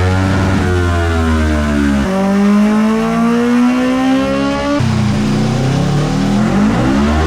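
Engine of a 2014 Kawasaki ER-6N, a 650cc parallel twin breathing through a custom midpipe and gutted exhaust, revving up and down in pitch with abrupt changes about two and five seconds in.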